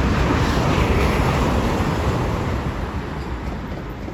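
Eurostar Class 374 high-speed electric train passing through the station at speed, a loud, even rush of air and wheel noise that fades steadily as it goes away.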